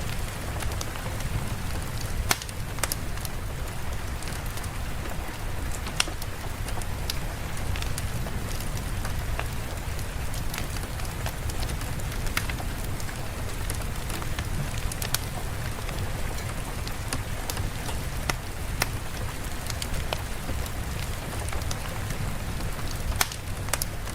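Steady ambient rain, an even hiss over a low rumble, with scattered sharp crackles and ticks.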